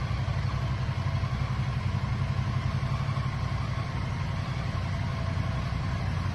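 Motorcycle engine idling steadily, a low even pulsing hum.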